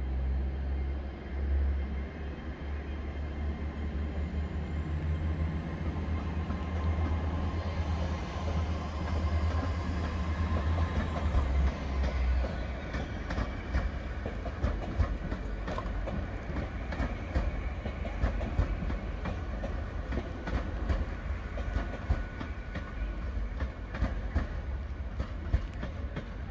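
TransPennine Express Class 802 bi-mode train pulling away under diesel power. Its underfloor engines run with a low steady rumble and a high whine that rises, then falls away after about twelve seconds. From then on its wheels clatter in quick clicks over the rail joints and pointwork as it draws away.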